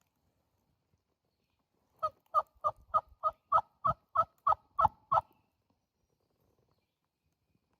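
A run of about eleven loud turkey yelps, evenly spaced at about three a second, each note breaking from a higher tone to a lower one, from about two seconds in to just past five seconds.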